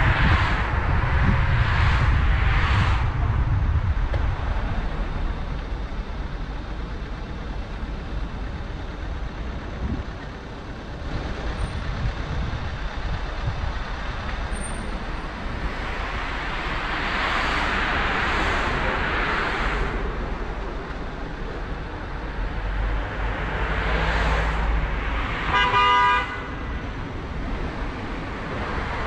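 Car driving with steady road noise and tyre hiss that swells a few times as traffic passes. Near the end a car horn sounds once for about a second.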